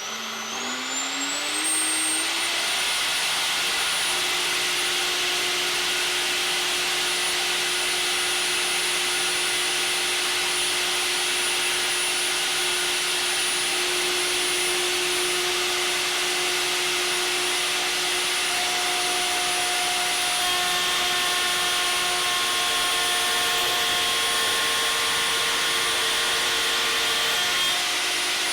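Triton router in a router table switched on, its motor winding up in pitch over the first couple of seconds, then running at steady speed with a high whine.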